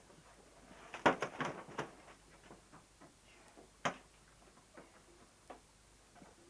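Quick knocks and clicks of handling in a boat, a cluster of several strikes about a second in, then one sharp click near the middle and a few faint ticks.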